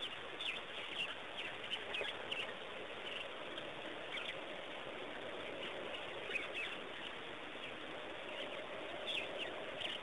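Wild birds giving short, scattered calls over a steady hiss of outdoor ambience at a waterhole. The calls come thickest in the first few seconds and again near the end.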